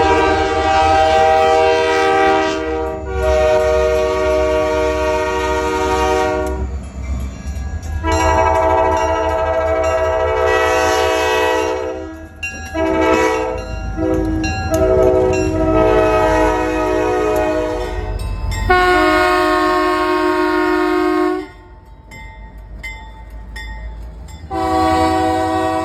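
Diesel locomotive air horn sounding a chord in a series of blasts, mostly long with some short toots in the middle, pausing for about three seconds near the end before sounding again. The low rumble of the locomotive's diesel engine runs underneath.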